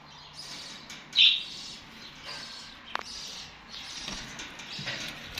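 Young nightingales, about three months old, chirping in short repeated calls, the loudest a little over a second in. A single sharp click sounds about three seconds in.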